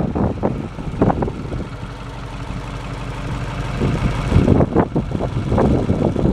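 International 1754 dump truck's engine running steadily, with wind buffeting the microphone in irregular gusts.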